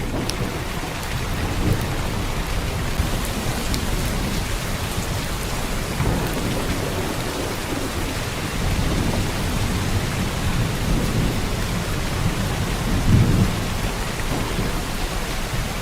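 Heavy rain pouring steadily, with a low rolling rumble of thunder underneath that swells briefly about thirteen seconds in.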